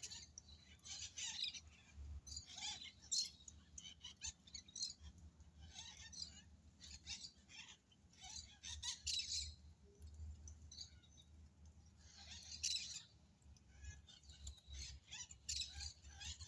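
Several birds chirping and calling in short, repeated clusters of high notes, with a pause about two-thirds of the way through, over a low steady rumble.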